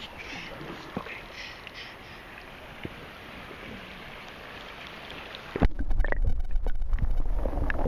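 River water lapping and splashing with a few small splashes. About five and a half seconds in, it turns abruptly into a loud, muffled low rumble as the microphone goes under the water's surface.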